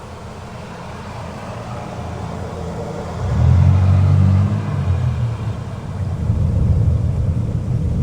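Rolling thunder over heavy rain. A low rumble builds, swells sharply about three seconds in and keeps going, over the steady hiss of rain.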